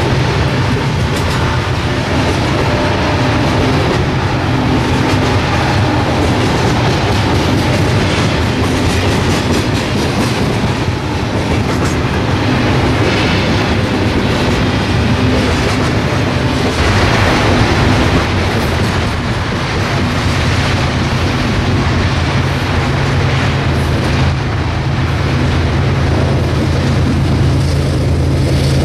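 A coal train's cars rolling past, with a steady low rumble and wheels clicking over the rail joints.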